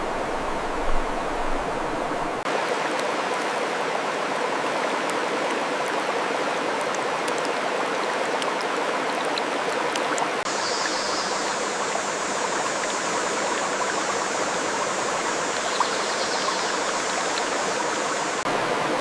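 Steady rushing of running water. About two and a half seconds in the sound changes and the deep rumble drops away, and a higher hiss joins it from about ten seconds in until shortly before the end.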